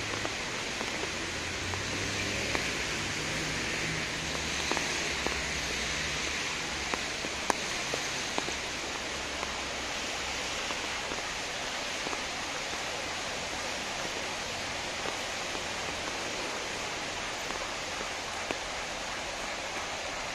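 Steady rain falling on wet pavement and leaves, an even hiss, with a few sharp ticks of drops in the first half.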